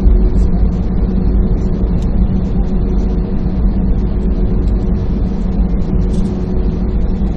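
Jet airliner heard from inside the passenger cabin: a steady, loud low rumble with a faint engine hum, holding level without rising.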